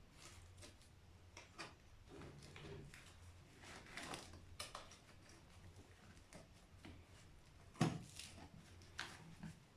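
Faint, scattered clicks and knocks of hand tools and metal parts being handled while a Corvette C3 brake booster is taken apart, with one louder knock near the end.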